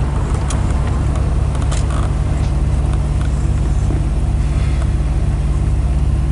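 1991 Lotus Elan's turbocharged 1.6-litre four-cylinder engine running steadily while the car is driven, with road noise.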